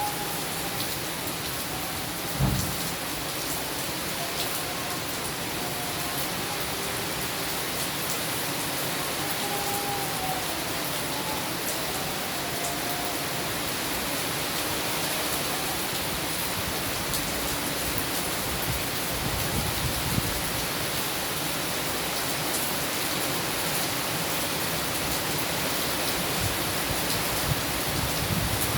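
Steady rain falling, an even hiss of drops on surfaces, with a single low thump about two and a half seconds in.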